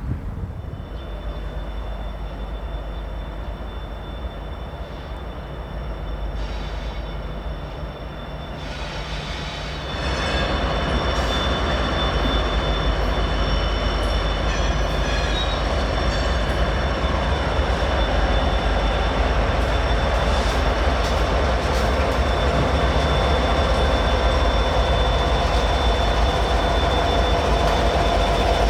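Diesel-hauled freight train passing. A low engine rumble about ten seconds in turns suddenly louder into the steady noise of the train going by, with a thin, steady high squeal from the wheels.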